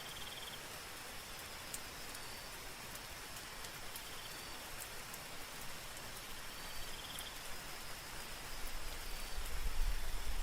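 Soft, steady rain with scattered drop clicks, while a night insect chirps in short pulsed trills every few seconds. A low rumble swells in near the end.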